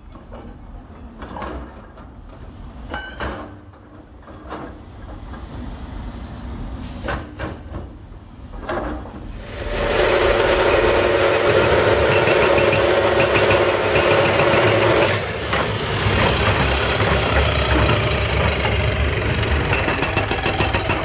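Industrial machinery: scattered knocks and clatter, then about nine seconds in a loud, steady mechanical noise starts suddenly and runs on, dipping briefly about halfway through the rest.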